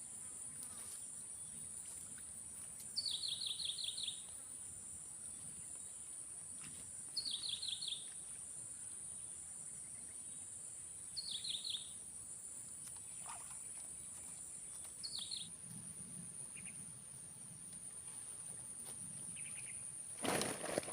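A bird repeating a call about every four seconds, each call a quick run of sharp falling notes lasting about a second, over a steady high-pitched insect drone. A loud rustling knock comes near the end.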